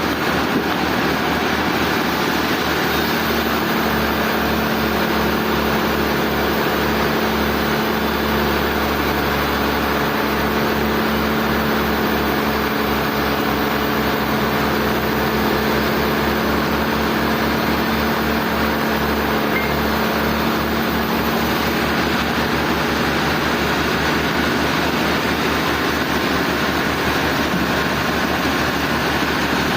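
Sawmill machinery running steadily, a constant mechanical noise with a low hum that comes in a few seconds in and fades in the later part.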